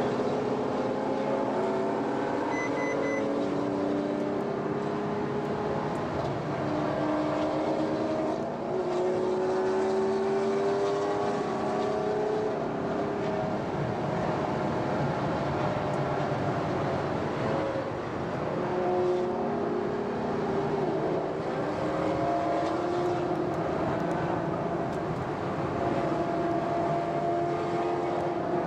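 Ferrari FF's V12 engine heard from on board while driving, pulling up through the gears: its note rises, then steps down at each upshift, several times over.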